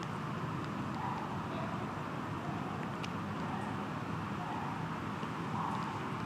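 Steady outdoor background noise: an even low rumble and hiss with no distinct event.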